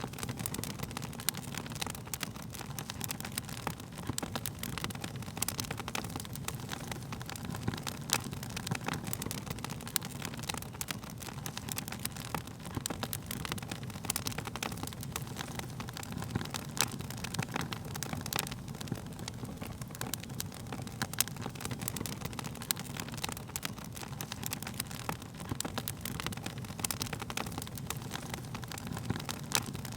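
Wood fire crackling steadily: a low, even rush of flame with frequent sharp snaps and pops scattered throughout.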